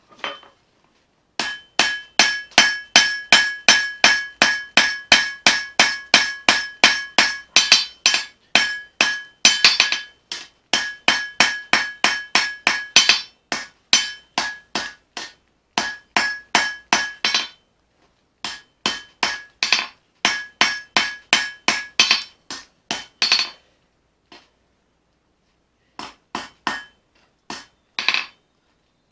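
Hammer forging leaf-spring steel on an anvil: runs of quick, evenly paced blows, about three to four a second, each with a clear metallic ring. The runs stop for short pauses, the longest about two seconds, near the end.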